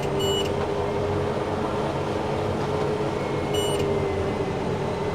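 Steady drone of a self-propelled sprayer's Cummins diesel engine, heard from inside the cab, with a constant hum. Short high electronic beeps cut through it: two quick ones at the start and one more about three and a half seconds in.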